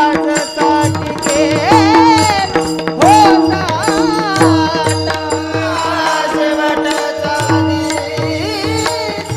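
A male voice sings a Marathi devotional melody with wavering, heavily ornamented glides. Under it sits a steady held drone and regular hand-drum strokes.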